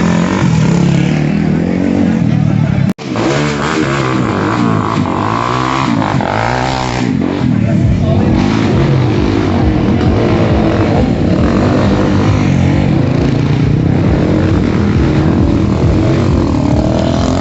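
Dirt bike engines revving up and down, with a brief cut in the sound about three seconds in.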